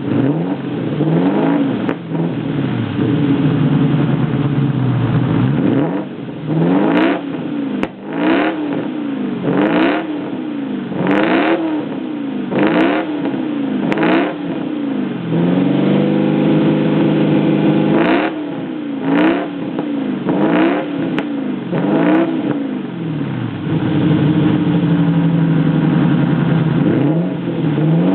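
Alfa Romeo Montreal's 2.6-litre quad-cam V8 being revved in a string of quick throttle blips, each a rise and fall in pitch about every second and a half. Twice the revs are held up for a few seconds, once around the middle and once near the end.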